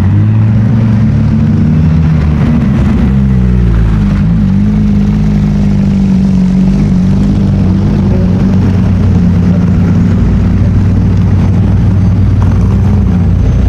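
Car engine running loudly close by at low revs, its pitch drifting gently up and down, with a brief dip about four seconds in.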